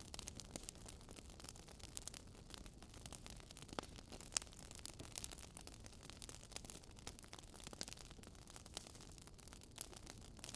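Campfire wood crackling faintly: irregular small pops and snaps over a low steady hiss, with a few sharper snaps standing out.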